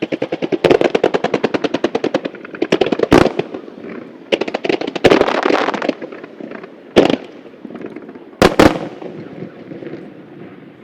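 Starmine fireworks barrage: a rapid rattle of shell bursts at about a dozen bangs a second, then scattered volleys and several big single bangs, fading to a rumbling echo near the end.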